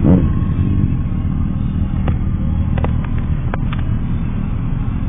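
Motorcycle on the move: a steady, dense rumble of engine and road noise, with a few short clicks around the middle.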